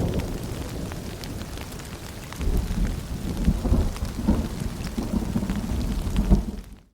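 Rain falling with low rolling thunder. The rumble eases, swells again about two and a half seconds in, then the sound fades abruptly to silence at the very end.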